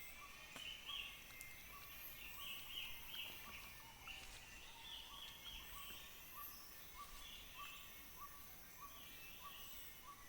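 Tropical rainforest ambience: steady high insect drones, a short call repeating at an even pace of roughly two notes a second, and irregular higher chattering calls from birds or other animals.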